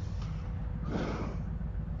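Low, steady rumble of a motorcycle running at low revs, with a short breathy rush of noise about a second in.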